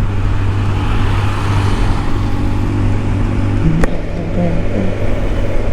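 Kawasaki Ninja 1000SX's inline-four engine running at a steady cruise, with wind and road noise rushing over the microphone. A single sharp tick about four seconds in.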